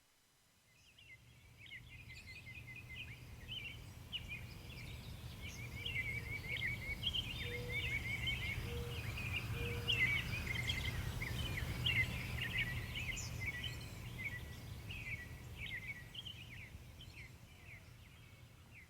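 A chorus of songbirds chirping and twittering densely over a steady low rumble, fading in over the first couple of seconds and thinning out near the end, with three short low notes near the middle.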